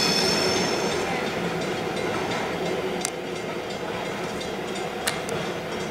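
Freight train's container wagons rolling past over a level crossing: a steady rumble of wheels on rail that slowly fades. A wheel squeal dies away just at the start, and two sharp clicks come about three and five seconds in.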